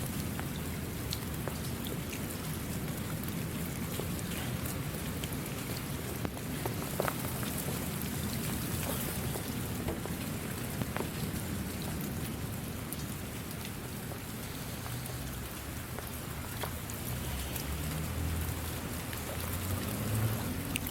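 Steady rain falling, an even hiss with scattered sharper drop ticks through it.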